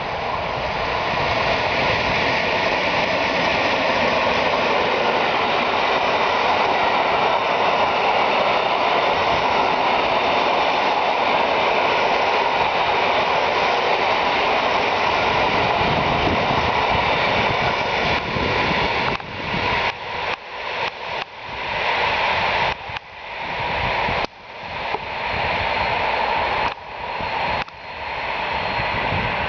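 Train hauled by an EU07 electric locomotive passing close by: a loud, steady rush of wheel and rail noise. In the last third the noise repeatedly drops away and comes back at irregular intervals.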